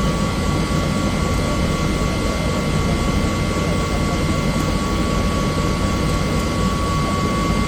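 Bell helicopter in flight, heard from inside the cabin: steady engine and rotor noise with a high, steady whine running through it.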